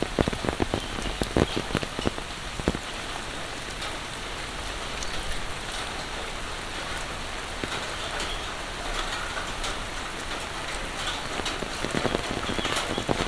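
Heavy monsoon rain falling steadily, with sharp close-by drop impacts that come thickest in the first few seconds and again near the end.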